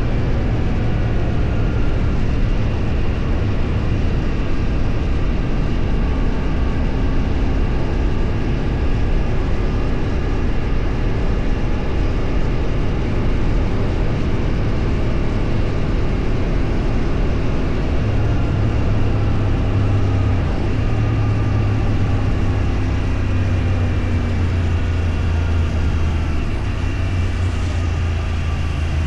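A vehicle engine running steadily while driving, with road and wind noise; its pitch drifts slowly up and down as the speed changes.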